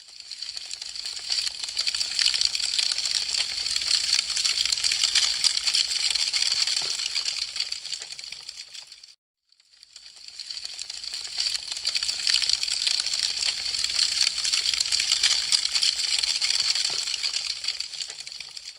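Wood fire crackling: a dense, fast patter of small pops and snaps from burning branches. It swells up, fades out to silence a little past the middle, then fades back in and repeats the same stretch.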